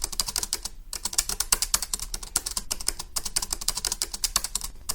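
Rapid keyboard typing: a fast, uneven run of sharp clicks, several a second, with a brief pause about a second in.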